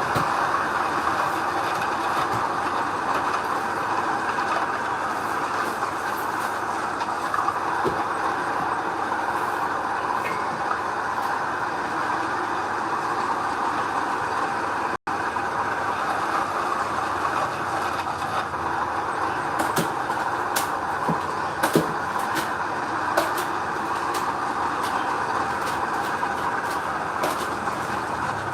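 Heavy earth-moving machinery running steadily, a continuous engine-and-track noise, with a brief dropout about halfway through and a few sharp metallic knocks in the second half.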